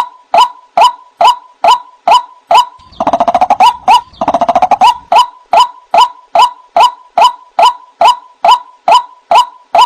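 White-breasted waterhen (ruak-ruak) calling: a steady series of short "wak" notes, a little over two a second, broken about three seconds in by two fast rattling runs of about a second each, after which the "wak" notes resume.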